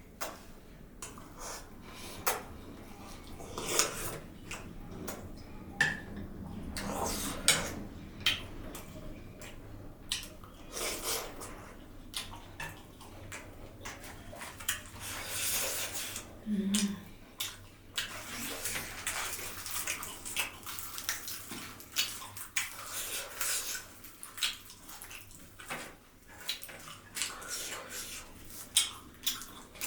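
Close-miked mukbang eating: chewing and mouth sounds, with many short sharp clicks throughout.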